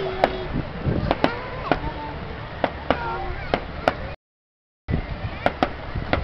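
Fireworks going off in a rapid, irregular string of sharp bangs and cracks, with people's voices faint underneath. The sound cuts out completely for about half a second about two-thirds of the way through.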